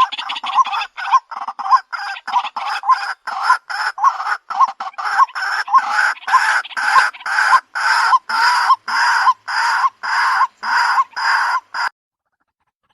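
White-breasted waterhen calls played back as a bird-trapping lure recording: a loud, rapid, evenly repeated harsh call, about three a second. It cuts off suddenly about a second before the end.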